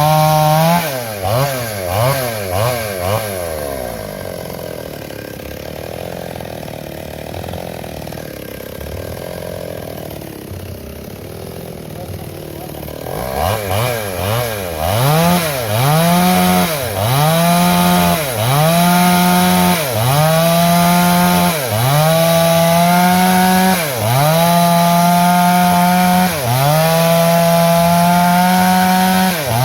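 Two-stroke chainsaw cutting a log. For the first few seconds the engine pitch dips and recovers several times, then it runs lower and quieter for about ten seconds, and from about halfway it is back at high revs, its pitch sagging briefly every second or two as the chain bogs in the wood and picking up again.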